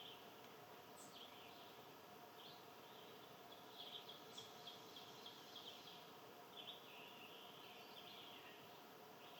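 Faint, scattered chirps and short calls of small birds over a steady outdoor background hiss, with two brief, sharp rising notes, one about a second in and one about four seconds in.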